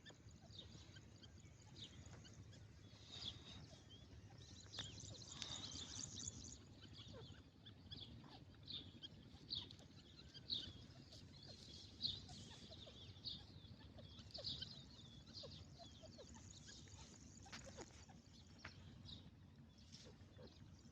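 Faint birds chirping: short, high, irregular chirps, busiest about five seconds in, over a low background rumble.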